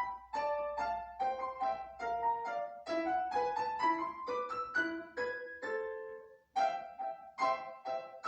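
Piano played solo: a lively melody in short, detached notes, about three a second, with a brief pause about six and a half seconds in.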